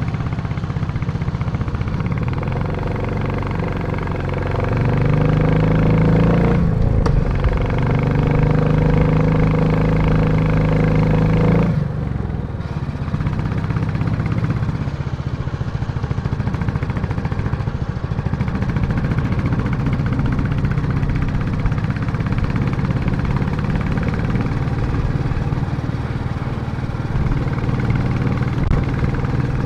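Royal Enfield Classic motorcycle engine idling, then revved up about four seconds in, with a brief dip, held at higher revs and dropped suddenly back to a steady idle about twelve seconds in.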